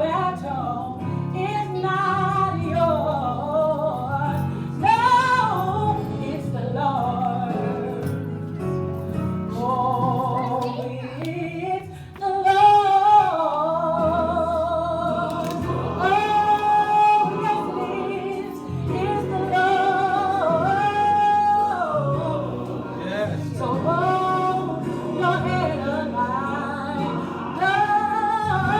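A woman singing a gospel song solo, in phrases with long held notes and wide vibrato, over a sustained low accompaniment.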